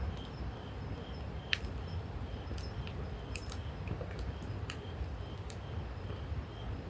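Wood campfire burning, crackling with several sharp, separate pops and snaps over a low steady rumble.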